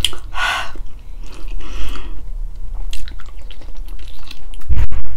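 Close-miked chewing and wet mouth sounds of a person eating balbacua, a stewed pork-feet dish, with scattered clicks. There is a short rush of noise about half a second in and a heavy low thump near the end.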